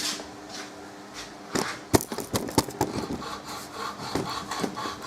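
Irregular rubbing and scraping strokes of a hand tool working a small workpiece, starting about a second and a half in, with a few sharp clicks among them. A faint steady hum runs underneath.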